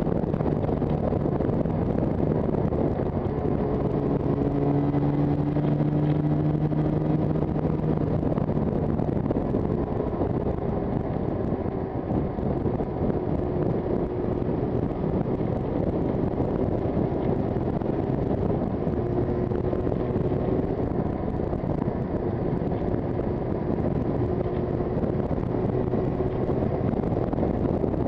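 Yamaha TZR250 two-stroke twin engine running while riding at a steady pace, its pitch shifting a little, under heavy wind rush on the microphone.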